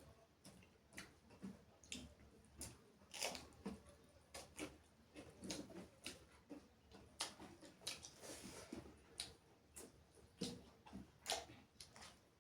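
Faint chewing and wet mouth sounds of people eating curry and rice: short, irregular clicks and squishes.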